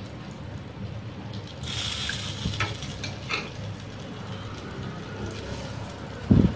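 Sausages sizzling in oil in an electric grill pan, the sizzle growing louder about two seconds in as they are turned with metal tongs, with a few light clicks of the tongs. A single low thump comes near the end.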